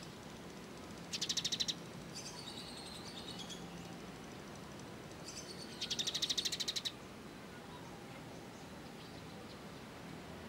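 Recorded songbird song used as masteran training material for a kolibri ninja: two loud, very fast buzzing trills, about a second in and about six seconds in, with softer chirps between.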